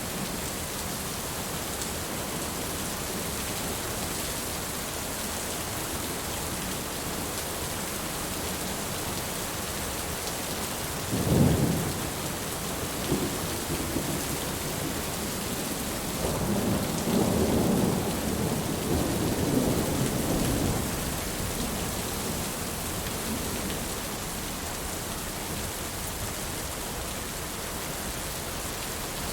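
Steady heavy rain with thunder: a sharp clap about a third of the way in, then a longer low rumble rolling for several seconds past the middle.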